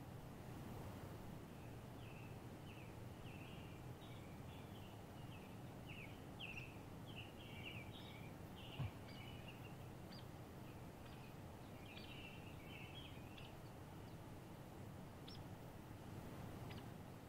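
Birds chirping and twittering over a steady low background hum, busy for most of the stretch and thinning to a few short chirps near the end. A single low thump about halfway through.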